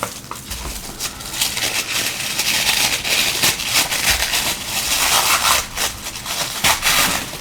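Crinkling and rustling of parcel packaging being handled and opened by hand, a dense run of crackles with a few soft thumps.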